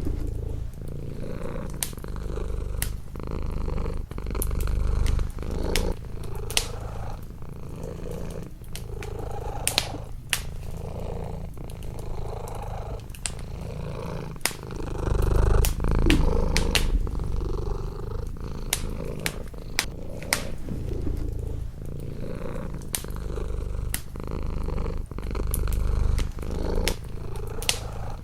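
A domestic cat purring close up, a low steady purr that swells and fades with each breath. Scattered sharp pops and crackles of a burning wood fire sound over it throughout.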